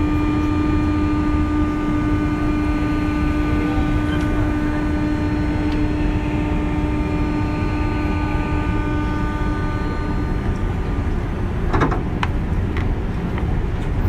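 JR 201 series electric train running: a steady rumble of wheels on rail with a constant-pitch whine from its thyristor chopper control, which cuts off about ten seconds in. A sharp clank near the end.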